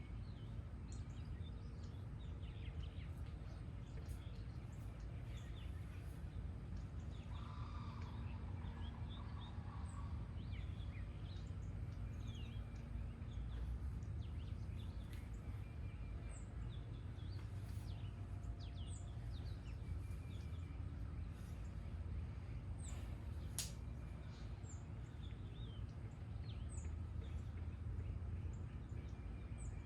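Wild birds chirping and singing in short, scattered calls over a steady low background rumble.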